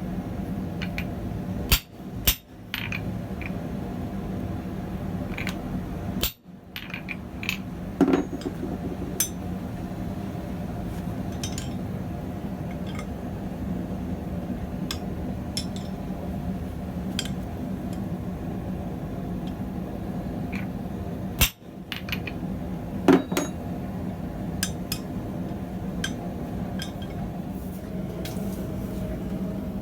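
Steady rushing roar of a propane gas forge burner, with scattered light metallic clinks of steel being handled and a handful of sharp metal-on-metal strikes.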